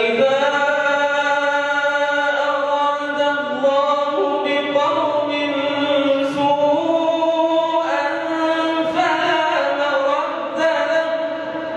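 A male reciter chanting the Quran in melodic tajweed style: one long drawn-out phrase of held notes that step up and down in pitch, with a short break for breath near the end.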